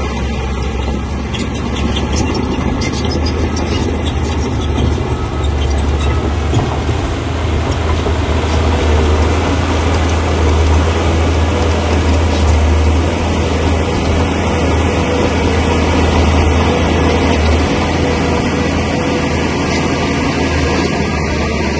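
Bulldozer's diesel engine running steadily while working: a deep, continuous drone under heavy mechanical noise, a little louder through the middle and easing slightly near the end.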